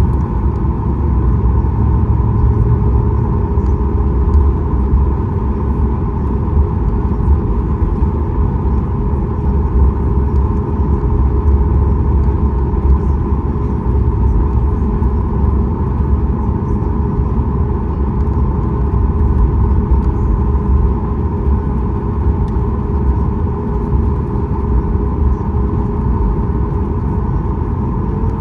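Cabin noise of a Boeing 737 MAX 8 taxiing with its CFM LEAP-1B engines at idle: a steady low rumble with a constant hum and whine.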